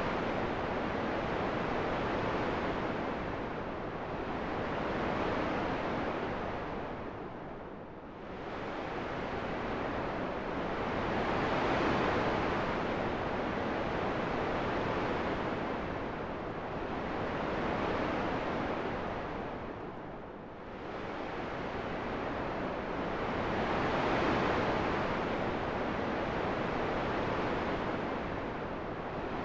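Wind rushing in a steady noise that swells and eases every few seconds, dropping to a lull about eight seconds in and again about twenty seconds in.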